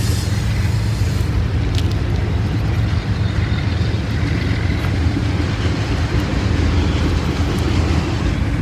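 Freight train of auto rack cars rolling past: a steady low rumble of wheels on rail, with a sharp click about two seconds in.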